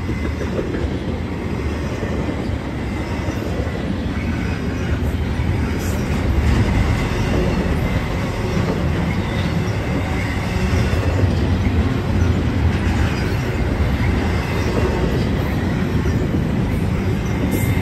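Norfolk Southern freight train's container cars rolling past at close range: a steady low rumble of steel wheels on the rails, getting a little louder after the first couple of seconds.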